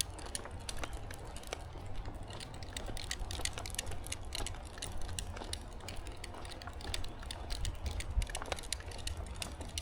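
Footsteps on a trail: many small irregular crunches and clicks, over a steady low rumble.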